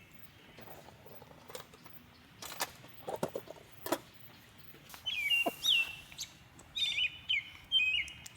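A small bird chirping repeatedly in the second half, short calls that drop in pitch. Before that, a few sharp clicks and knocks come about three to four seconds in.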